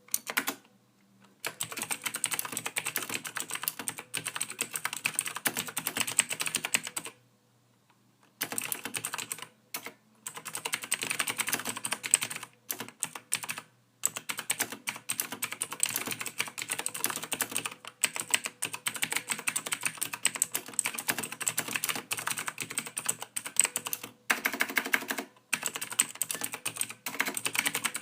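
Soft typing on a computer keyboard: fast, continuous runs of keystrokes, broken by brief pauses, the longest about seven seconds in.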